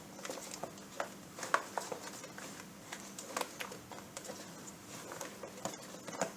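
Spatula stirring a creamy mixture in a bowl, with irregular light taps and scrapes against the bowl.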